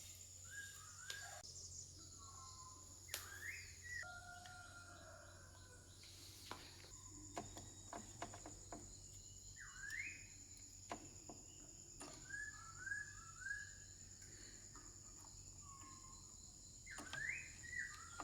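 Faint bird chirps, short rising calls repeated every few seconds, over a steady high insect drone and a low hum, with a few scattered clicks.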